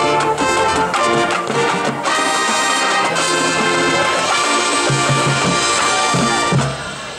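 Marching band playing, with brass (trumpets and trombones) carrying sustained chords over the ensemble; the sound eases off slightly near the end.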